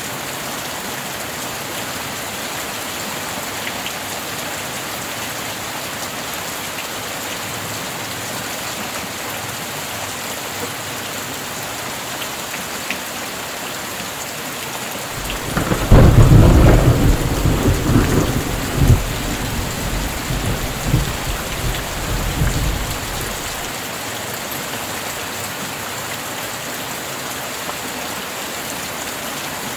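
Steady heavy rain with a clap of thunder about halfway through. The thunder breaks suddenly and loudly, then rumbles on in several swells for about seven seconds before dying away under the rain.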